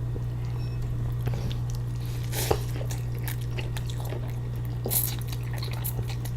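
A person eating wonton soup: quiet chewing and wet mouth sounds, with two brief louder ones a few seconds apart, over a steady low electrical hum.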